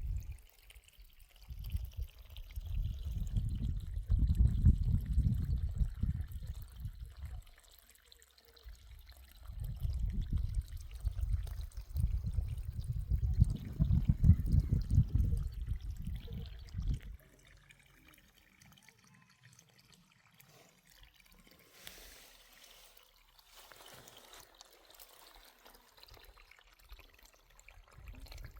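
Irrigation water pouring and gurgling into the basin around the foot of a tree, in two loud spells that stop about 17 seconds in.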